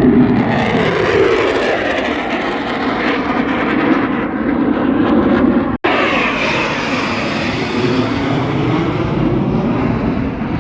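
Loud aircraft engine noise from an airshow aircraft in flight, steady with slowly shifting bands of pitch. It cuts out for an instant just over halfway, then carries on.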